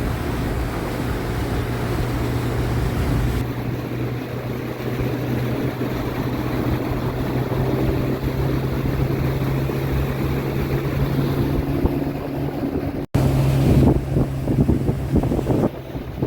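Small boat's outboard motor running steadily, with wind and water noise. The sound cuts out for an instant about thirteen seconds in and comes back louder.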